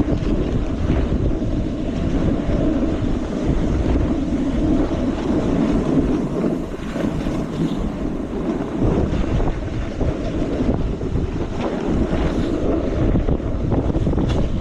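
Steady, loud wind rushing over a GoPro's microphone as a snowboarder rides downhill, with the board sliding on the snow underneath.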